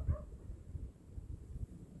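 Winter storm wind rumbling low and buffeting unevenly, loudest in a gust right at the start. A couple of brief, high, whimper-like squeaks come at the same moment.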